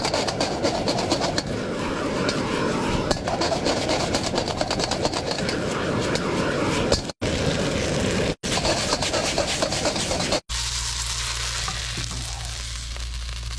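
Rice noodles stir-fried in a hot iron wok: a steady sizzle with rapid scraping and clattering of the spatula against the wok, broken by a few abrupt cuts. For the last few seconds a steadier hiss with a low hum takes over.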